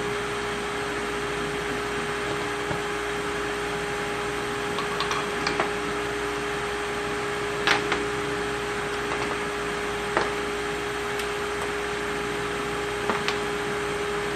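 Steady hum of a fan or similar appliance running, with a few light clicks and knocks scattered through, from engine parts being handled and set down.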